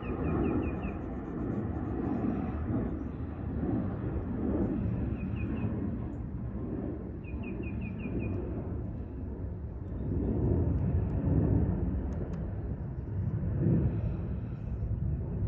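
Outdoor park ambience: a steady low rumble that swells and eases, with short bursts of high chirping three times, at the start, around five seconds in and around seven and a half seconds in.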